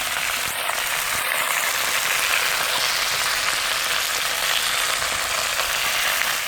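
Chicken frying in a hot pan, a steady sizzle throughout.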